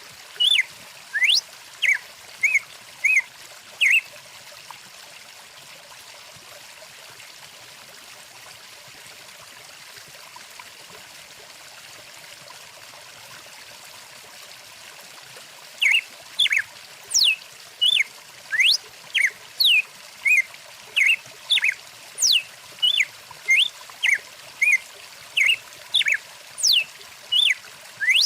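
A stream running steadily, with a bird calling in quick, short sweeping chirps for the first few seconds, falling silent for about twelve seconds, then calling again rapidly to the end.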